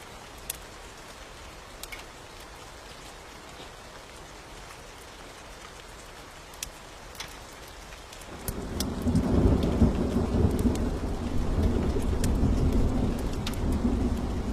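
Steady rain with scattered sharp ticks, then about eight seconds in a low rumble of thunder swells up loudly and keeps rolling.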